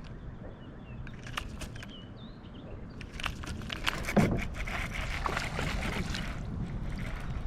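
Water sloshing and splashing with knocks and handling clicks around a kayak, loudest from about three to six seconds in. A few faint chirps come about two seconds in.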